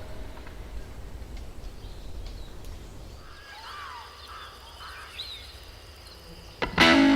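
Faint outdoor ambience with a short run of bird calls, several quick curving chirps clustered in the middle. Music cuts in near the end.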